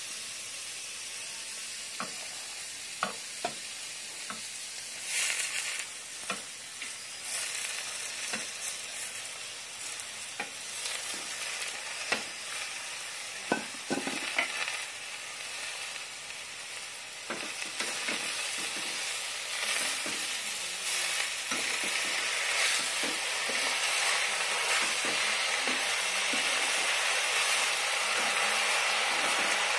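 Silkworm pupae and roselle leaves frying in oil in a wok, sizzling steadily, with a metal spatula clicking and scraping against the pan now and then. The hiss swells briefly about five seconds in and grows louder toward the end.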